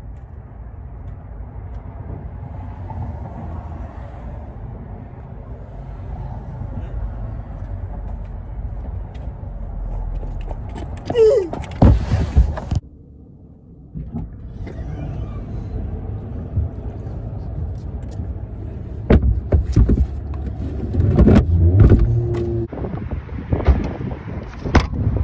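A road vehicle running with a steady low rumble; it cuts off abruptly about halfway through and then resumes, and sharp knocks and clicks come in the last few seconds.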